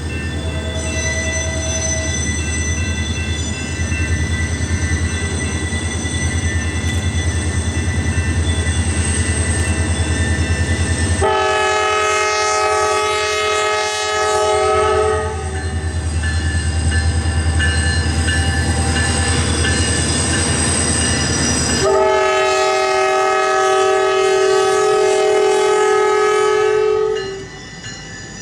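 CSX diesel locomotives hauling an autorack freight train, engines running with a low pulsing rumble, sounding two long air-horn blasts: one about 11 seconds in lasting about four seconds, and one about 22 seconds in lasting about five. The sound drops off shortly before the end.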